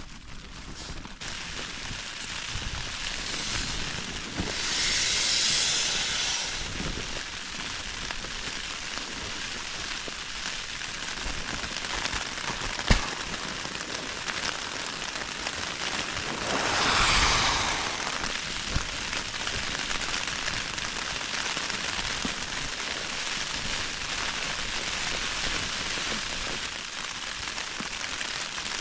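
Rain and wind on a tent: a steady hiss, swelling twice with gusts about five and seventeen seconds in, with a single sharp tap about thirteen seconds in.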